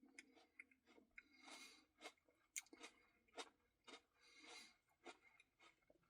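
Faint chewing with scattered small mouth clicks and a few soft smacks: a person eating a cookie Blizzard ice cream treat.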